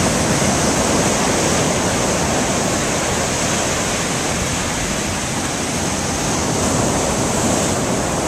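Rough, storm-churned surf washing and breaking steadily along the shore, swelling and easing slowly. The agitated sea is stirred up by a tropical storm.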